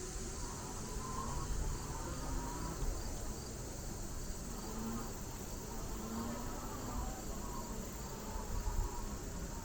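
Steady high buzzing of an insect chorus, over a low rumble.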